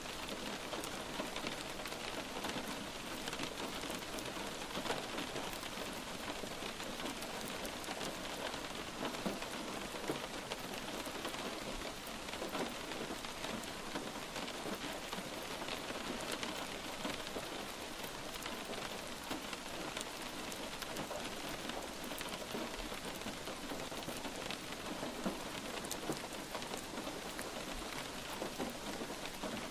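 Steady light rain falling on a surface, an even patter of many drops with scattered sharper drop ticks.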